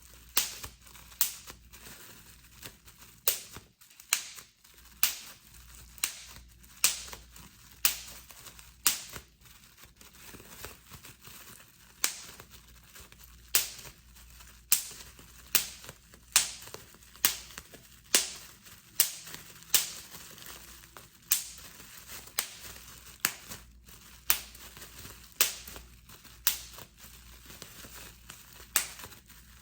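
Plastic bubble wrap popping one bubble at a time, a sharp pop about once a second, with the plastic crinkling between pops.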